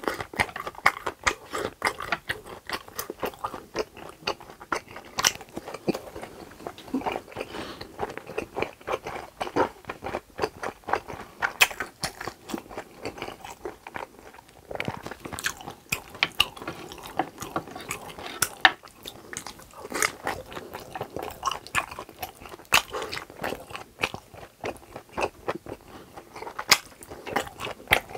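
Mouth sounds of a person chewing grilled pork intestines: a dense run of small crunchy clicks, with a brief pause about halfway through.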